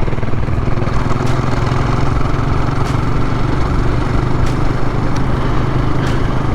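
Motorcycle engine idling steadily close by, an even low running note with no revving.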